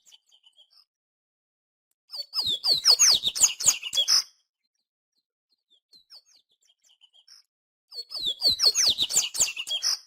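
Papa-capim (seedeater) singing: two phrases of fast, high twittering notes, each about two seconds long, with faint scattered chips between them.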